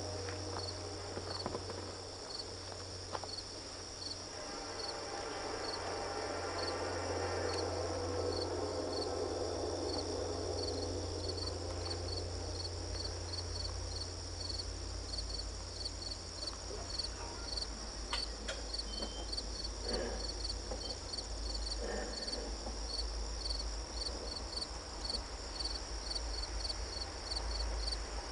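Insects chirping steadily outdoors: a regular high chirp about twice a second over a continuous high-pitched trill, with a low hum underneath.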